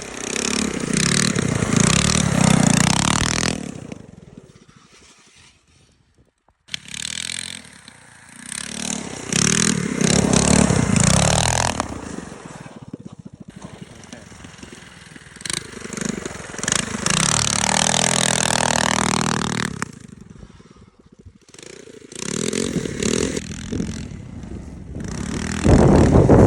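Coleman mini bike engine revving up and down in several separate stretches, with scraping and clattering as the bike slides out on ice.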